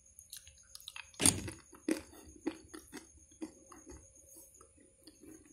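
A person chewing crunchy fried cashew nuts: irregular crunches, the loudest about a second in.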